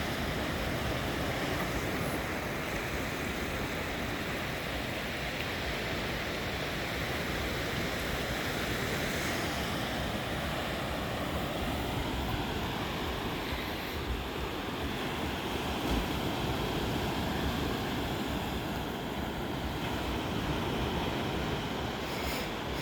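Ocean waves washing in steadily, a continuous surf noise with some wind on the microphone.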